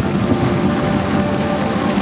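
Fireworks salute: a dense, continuous rumble and crackle of many distant bursts, with no single loud bang.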